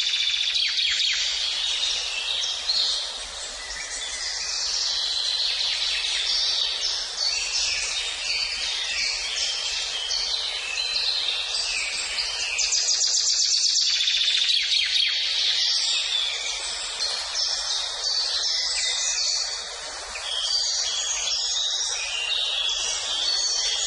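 Several songbirds singing at once: a dense chorus of overlapping high chirps, whistles and rapid trills.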